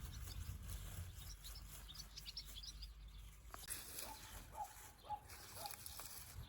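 Outdoor birdsong: a run of quick high chirps in the first few seconds, then a short lower call repeated about twice a second from about four seconds in.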